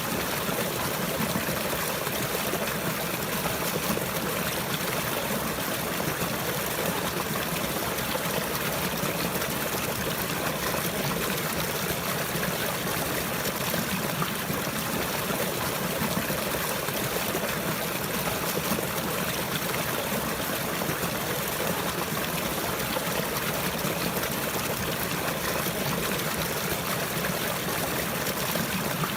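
Running water, a steady, even flow of a small stream or trickle with no change.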